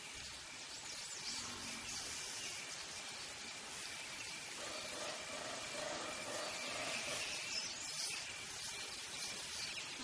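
Faint outdoor ambience: scattered bird chirps over a steady, high insect trill.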